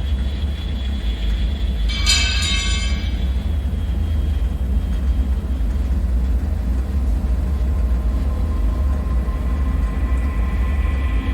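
Dark bunker ambience: a loud, steady deep rumble, with a brief metallic screech about two seconds in. Faint high ringing tones come in near the end.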